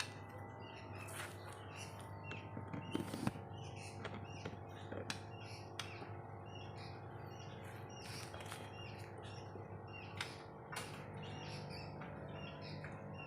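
White-rumped shama (murai batu) giving many short, scattered chirps and calls, over a steady low hum.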